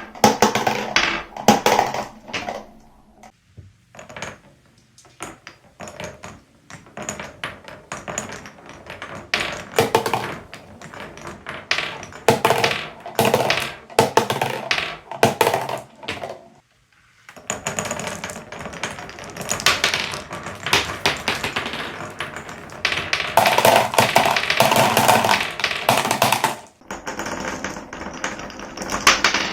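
Glass marbles rolling and clattering through wooden Cuboro marble-run blocks: rapid clicking and rattling as they drop and knock along the tracks, with a short pause a little past halfway and a dense burst of clatter later on.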